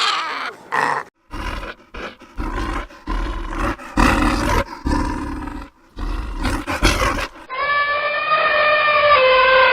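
Lion roaring: a series of separate deep roars and grunts with short gaps between them. From about three-quarters of the way in, a different animal gives one long, high, steady call that drops in pitch as it ends.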